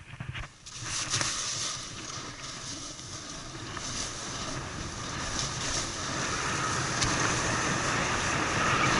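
Snowboard sliding and scraping over snow, with wind rushing on the microphone; the noise sets in about a second in and grows steadily louder as speed builds.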